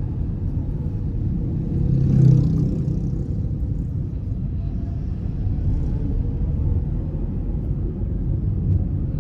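A car driving along: a steady low engine and road rumble, swelling briefly about two seconds in.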